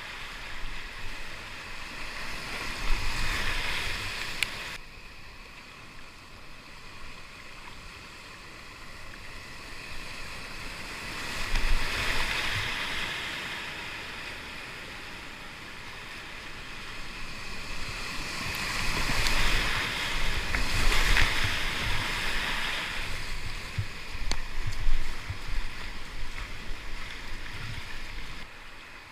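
Rushing whitewater of a river rapid heard from a kayak, swelling louder several times as the boat runs through the drops of a triple-drop rapid, with a sudden drop in level about five seconds in.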